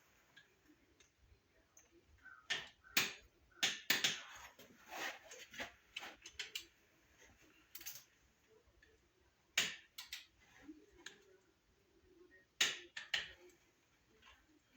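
Hand tools clicking and tapping on engine parts: about a dozen sharp, irregular clicks and knocks, some in quick pairs.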